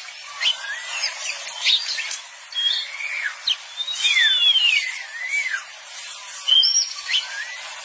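Several birds calling over one another: quick arched and hooked whistled notes and short chirps. A cluster of curved, falling notes is loudest about four to five seconds in.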